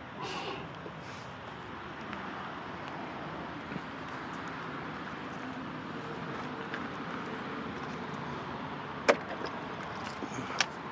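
Steady outdoor background noise, with two sharp clicks near the end.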